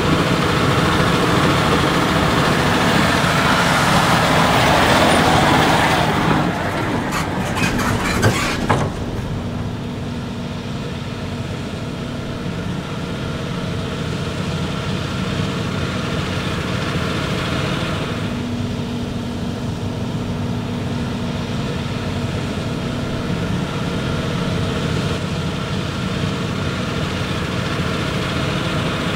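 Heavy farm tractor diesel engines running. The sound is louder for the first few seconds, has a short cluster of clicks and rattles about six to eight seconds in, then settles into a steady drone.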